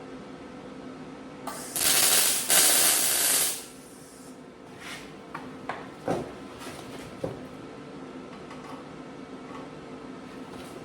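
Two loud bursts of hissing, one right after the other, lasting about two seconds in all, then a few light clicks and knocks, over a steady background hum.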